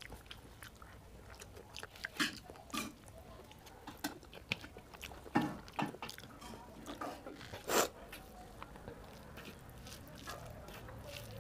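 Close-up chewing and wet mouth smacks of someone eating rice by hand, with scattered short clicks and a few louder smacks. Near the end, fingers squish and mix rice with laal saag on a steel plate.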